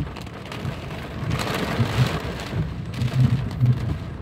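Heavy rain drumming on a car's roof and windshield, heard from inside the cabin. The hiss swells about a second and a half in.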